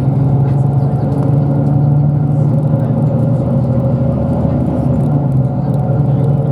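Bus engine and tyres heard from inside the passenger cabin while the bus drives along, a steady hum with a low, even drone.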